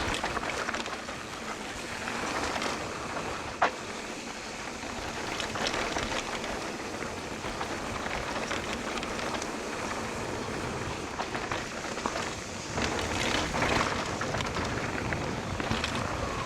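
Mountain bike descending a bumpy dirt trail, a steady rush of tyre and wind noise with a few sharp knocks as the bike goes over bumps.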